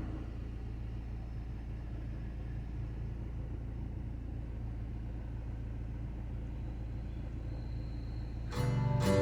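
Fiat Uno engine idling, a steady low hum. Acoustic guitar music comes in near the end.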